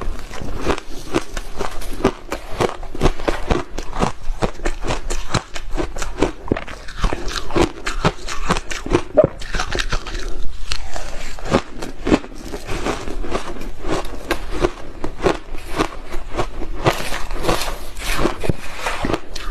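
A person biting and chewing hard ice: a dense, unbroken run of crunches and cracks, several a second.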